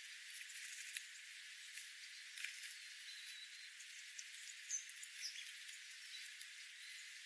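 Faint, brief bird chirps over a steady hiss, with scattered small clicks; a few short high notes come about three to five seconds in.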